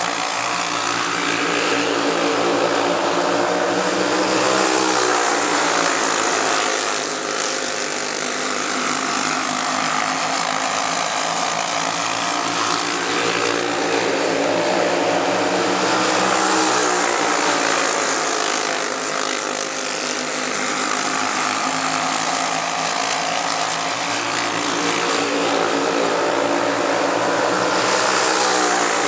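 Racing go-karts with four-stroke Briggs & Stratton Animal engines running flat out on a dirt oval. The engine note rises and falls in a repeating cycle of about twelve seconds, lap after lap.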